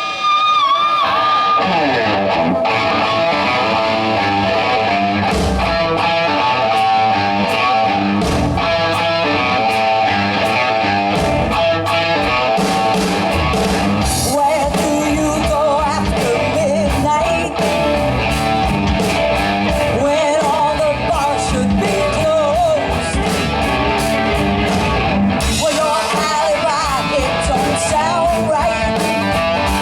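A rock band playing a song: a singer over guitar and drums.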